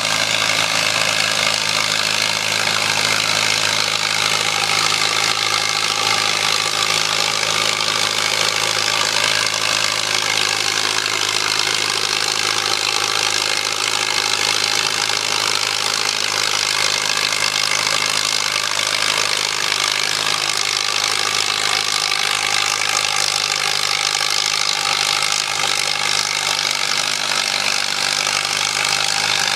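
A farm tractor's engine runs hard under load, dragging the weighted pulling sled down the track. The sound is loud and continuous, and the engine note sags a little partway through, then recovers.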